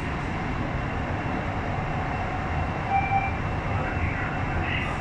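Nanjing Metro Line S9 train running at speed, a steady rumble of wheels on rail and traction noise heard from inside the car, with a brief tone about three seconds in.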